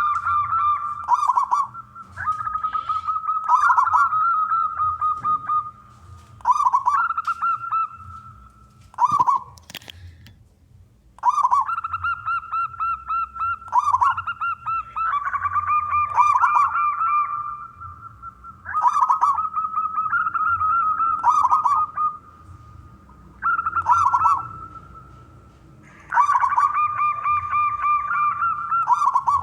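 Male zebra dove singing: repeated phrases of rapid, pulsed cooing notes, each a second or two long. About ten seconds in there is a pause of roughly two seconds, broken by a single sharp click.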